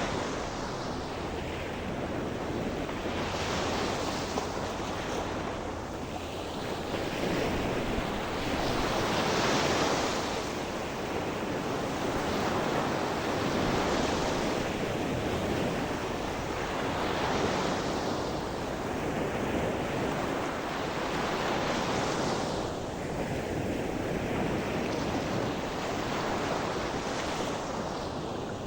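Gentle sea surf: waves breaking and washing ashore in swells about every three to four seconds, with wind on the microphone.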